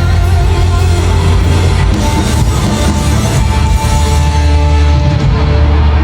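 Live pop-rock concert music played loud through a stadium sound system, with a heavy, steady bass under held notes.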